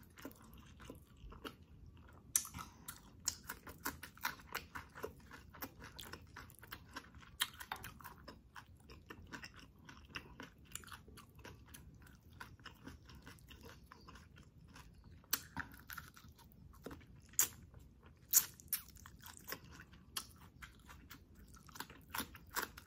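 Close-miked eating sounds: chewing with irregular wet smacks and clicks of the lips and mouth as chicken in coconut-milk sauce is eaten by hand and sauce is sucked off the fingers.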